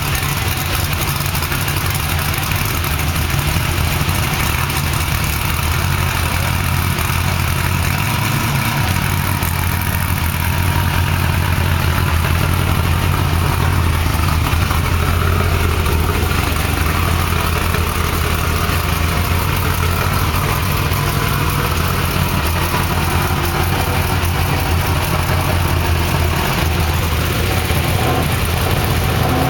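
Off-road trophy truck engine idling steadily with a low, even rumble.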